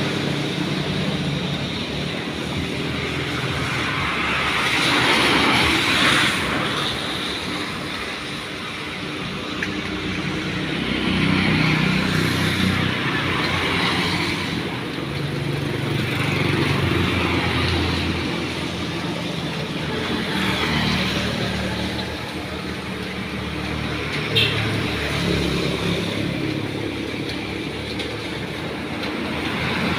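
Road traffic: cars and motorbikes passing one after another, their engines and tyres swelling and fading every few seconds, over a steady hiss of rain.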